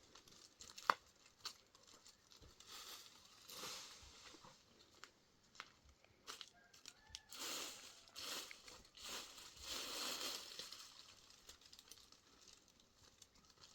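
Faint rustling and crinkling, like something being handled or unwrapped, in several swells, with scattered sharp clicks; one click about a second in is the loudest.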